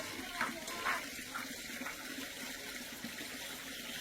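Water running steadily, with a few light knocks in the first second or so.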